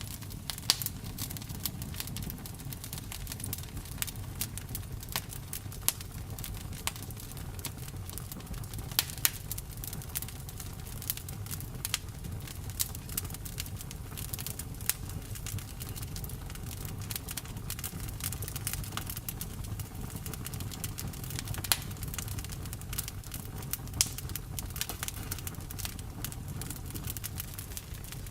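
Wood fire burning with a steady low rumble and irregular crackles and snaps, a few of them loud pops.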